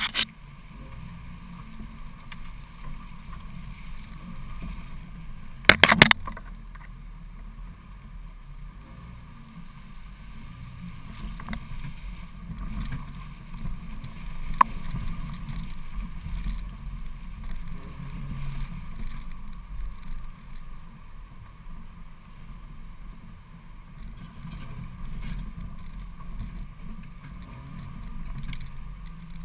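Jeep Cherokee XJ engine running low and steady at crawling speed on a rough trail, heard from a camera mounted on the outside of the body. A short cluster of loud knocks comes about six seconds in, and there is a single sharp click about halfway through.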